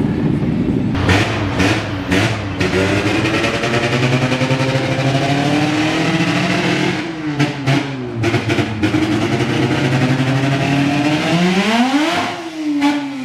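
Modified car engines running loud as cars pull out. Several sharp cracks come about a second in and again past the middle, and near the end one engine revs up steeply and falls back.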